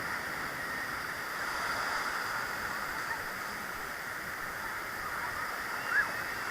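Steady wash of sea surf and moving water, with one short click about six seconds in.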